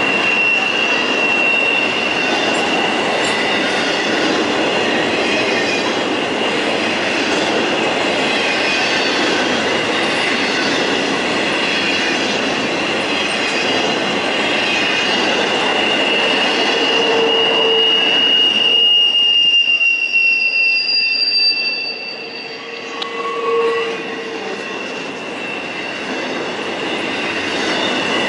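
Railroad cars rolling past with a steady high wheel squeal over the rumble of the wheels. About two-thirds of the way through the rumble drops off and the squeal fades, with a couple of short squeals after.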